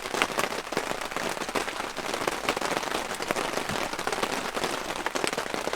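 Heavy rain pattering steadily: a dense mass of small drops hitting a surface, starting abruptly and holding steady.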